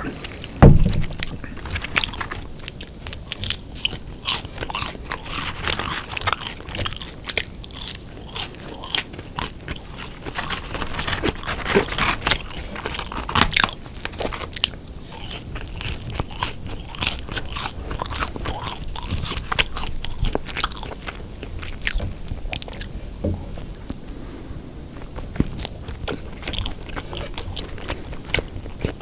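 Close-miked eating sounds: a person biting into and chewing a folded fast-food beef burger, with many irregular crisp crunches and wet mouth clicks. A heavy low bump comes just under a second in.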